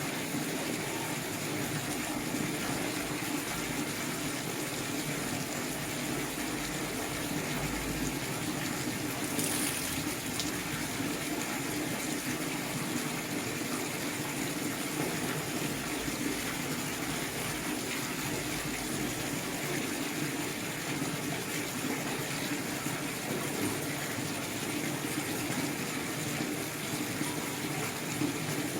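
Steady rushing of running water, with a brief high hiss about nine and a half seconds in.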